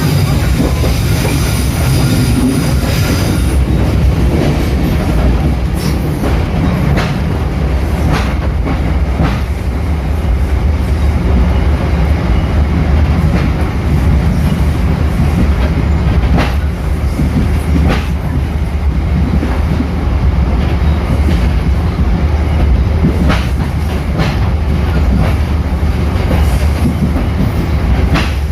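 A train running on rails, heard on board: a steady heavy rumble with sharp wheel clacks over rail joints every second or few. A high wheel squeal in the first few seconds stops about three and a half seconds in.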